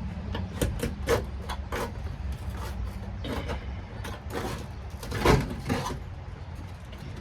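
Scrapes, knocks and crackles of old sound-deadening material being pried and peeled off a car's steel floor pan, the loudest scrape about five seconds in, over a steady low hum.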